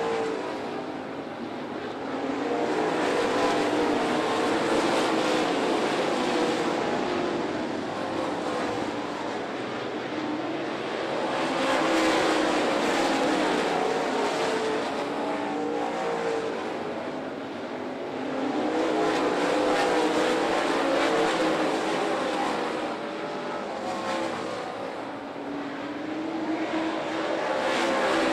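Dirt late model race cars running laps, their V8 engines wavering in pitch as they rev through the corners. The sound swells and fades about every eight seconds as the field comes around.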